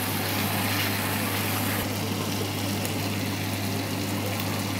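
Spice masala with chopped tomato sizzling and bubbling in oil in a pan, over a steady low hum. The sizzle is brighter for about the first two seconds, then eases.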